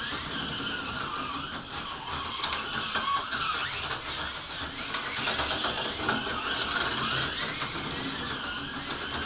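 HO-scale slot cars running on the track, their small electric motors whining and gliding up and down in pitch as they speed up and slow down through the laps, with light clicks throughout.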